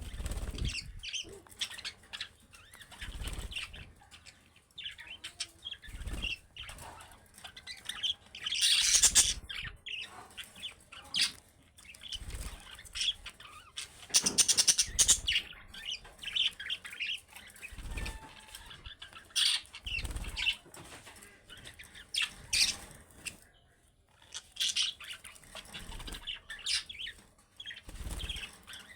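Budgerigars chirping and chattering in many short calls, with louder dense bursts about nine and fifteen seconds in.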